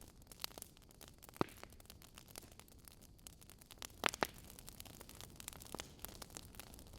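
Wood fire burning in a fireplace, crackling with many small ticks. A sharp pop comes about a second and a half in, and a louder double pop about four seconds in.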